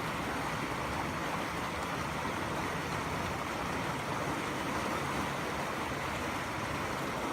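Steady rushing of a fast-flowing river in flood, swollen beyond its banks, a constant dense roar of water.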